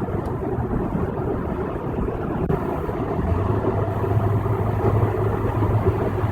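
Steady road and tyre noise inside a car cruising on a rain-wet freeway, with a low steady hum coming in about three seconds in.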